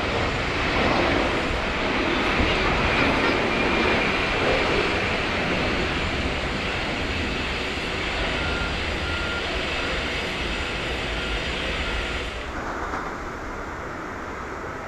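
Jet noise of an Airbus A330-300 with Rolls-Royce Trent 700 engines climbing away after takeoff, a loud, steady rumble and roar. About twelve seconds in it drops abruptly to a quieter, duller airport background.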